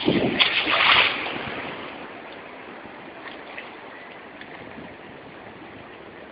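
Seawater splashing, loudest in the first second and a half, then settling to a steady wash of water.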